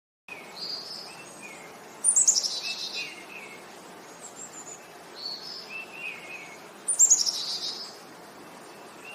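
Songbirds singing. Twice, about five seconds apart, a loud phrase of quick notes runs downward in pitch, with quieter chirps repeating in between, over a faint steady background hiss.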